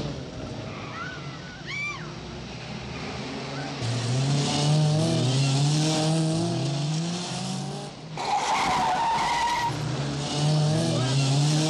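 Car engine revving hard as the car accelerates through the gears, its pitch climbing and falling back again and again, with tyre squeals; a held squeal comes about eight seconds in.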